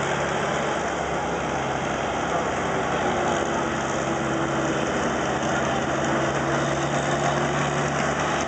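Big-rig diesel truck engines running at a steady pitch, under a dense, even layer of noise.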